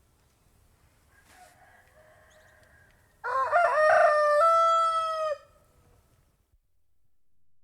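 Rooster (domestic chicken) crowing once: a loud cock-a-doodle-doo of about two seconds, with a few quick rising notes and then a long held note that falls off at the end. A fainter call comes shortly before it, about a second in.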